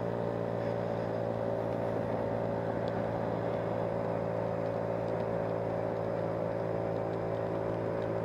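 Small motor scooter engine running at a steady cruising speed, a constant droning note that holds one pitch.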